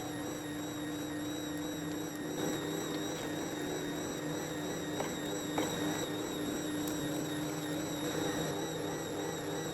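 A small electric motor running steadily, with a constant hum and a high whine over a rough rushing noise, and a couple of light clicks about five seconds in.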